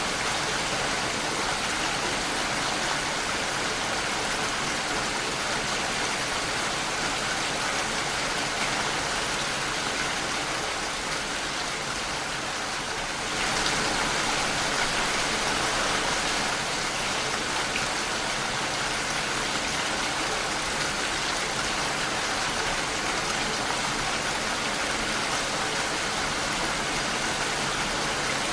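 Steady rain against a window, a dense even hiss; about halfway through it eases slightly, then comes back a little louder.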